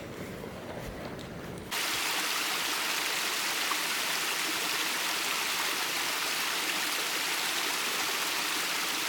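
Rushing water of a stream, a steady even hiss that starts abruptly about two seconds in, after a short stretch of low rumbling noise.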